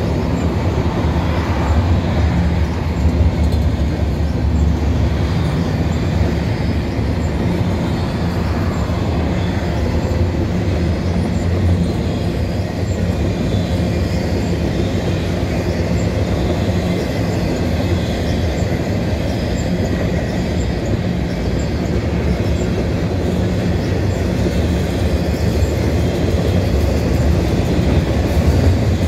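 Double-stack intermodal container freight train rolling past: a steady, loud low rumble of the well cars' wheels running on the rails.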